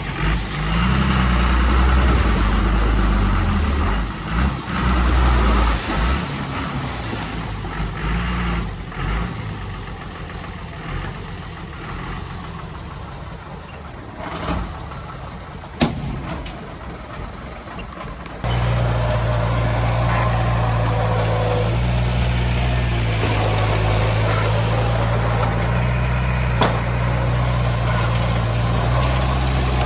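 Heavy diesel machinery running. The engine is loud at first and eases off over several seconds, with a sharp click about 16 seconds in. It then switches abruptly to a steady, closer engine drone about 18 seconds in.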